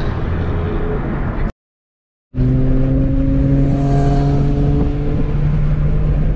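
Engine and road noise inside the cabin of a tuned Alfa Romeo Giulia Quadrifoglio cruising at highway speed, its engine note steady and sinking slightly in pitch as the car eases off. The sound cuts out completely for under a second about a second and a half in, then resumes.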